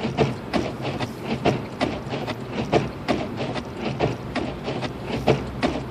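Inside a Lexus IS250 AWD crawling through deep snow: a steady low hum of engine and road, with a run of sharp clicks or knocks about twice a second.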